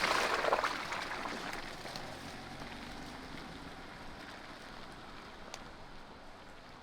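Jeep Gladiator Rubicon driving along a dirt trail, heard as a burst of rushing tyre noise at the start that eases off into a steady, quiet running hum.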